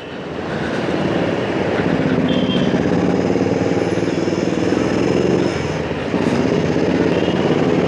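Motorcycle engine running under way with a dense rush of road noise, the engine note building about a second in and dipping briefly around six seconds.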